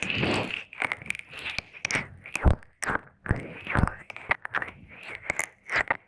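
Close-miked wet mouth sounds and licking ASMR: irregular tongue clicks, lip smacks and slurping swishes, several each second, with no words.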